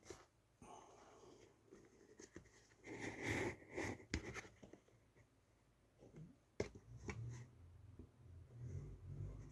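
Quiet handling noises from computer parts and cables being moved about: light rustling and small clicks, louder for a moment about three seconds in, with a sharp knock about two-thirds of the way through.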